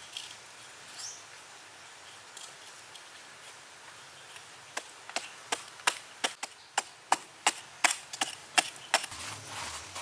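A quick run of about a dozen sharp knocks on wood, roughly three a second, beginning about halfway through and stopping shortly before the end: wood being struck while building.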